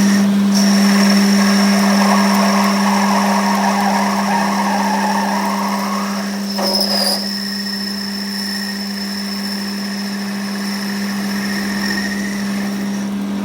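A machine tool's motor running steadily, with a constant low hum and a high, even whine. There is a brief scraping disturbance about seven seconds in.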